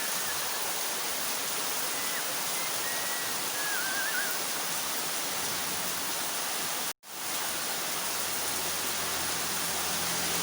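Heavy rain pouring steadily, a dense even hiss of water. The sound cuts out for an instant about two-thirds of the way through.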